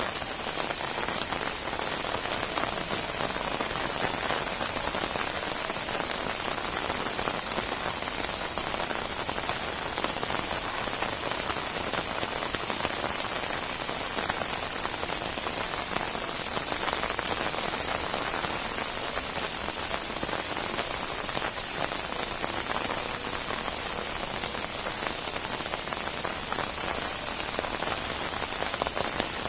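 Steady rain falling on a surface, with dense patter of drops, even and unbroken throughout.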